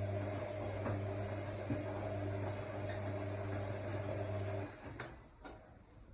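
AEG Lavamat L62850L washing machine running with a steady hum, which stops a little over four seconds in and is followed by two clicks.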